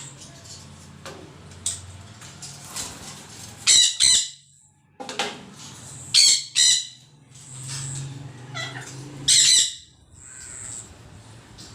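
Green parrot squawking: loud, harsh calls, a pair about four seconds in, another pair two seconds later and a single one a few seconds after that, with softer calls between.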